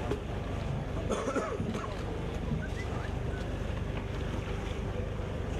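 Wind on the microphone over a steady low rumble of outdoor waterfront ambience, with faint voices in the background about a second in.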